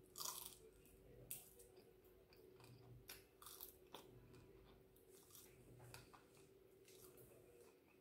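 Quiet close-up eating sounds: a bite into a roasted chicken wing about a quarter second in, then chewing with small crunches and mouth clicks.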